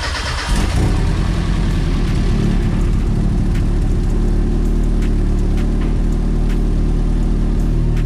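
Turbocharged 1.6-litre four-cylinder engine of a Mazda Miata running just after starting. It comes up about half a second in, then idles steadily.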